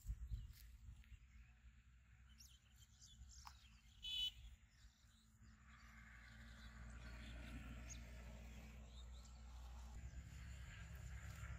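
Near silence with a faint low rumble, a few faint bird chirps and one short, louder bird call about four seconds in.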